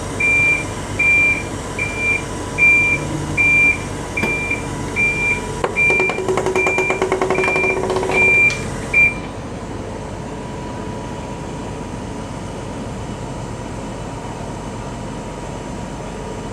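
Kobelco CKE2500G crawler crane's warning alarm beeping steadily, a little over once a second, while the crane moves under remote-pendant control, over a steady mechanical hum. A rapid rattle of clicks joins for a few seconds in the middle, and the beeping stops about nine seconds in, leaving the hum.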